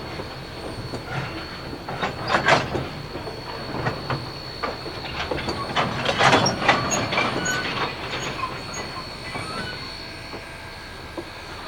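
Narrow-gauge train cars rolling past, with wheels squealing and a run of metallic clanks and clicks over the rails. The clanks bunch up about two and a half seconds in and again around six to seven seconds in, then thin out near the end.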